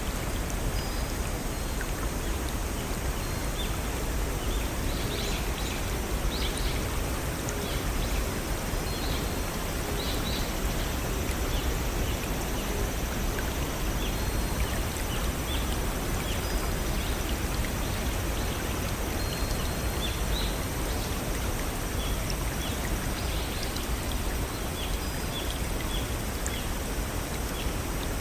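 Steady rush of water from a small stream and waterfall, with short bird chirps and calls scattered over it.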